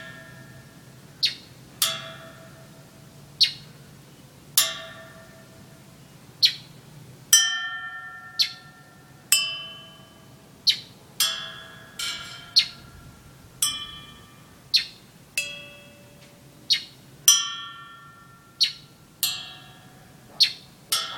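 A bell-like ringing note sounded over and over, about once a second, each note dying away, with a bird answering it in short high chirps.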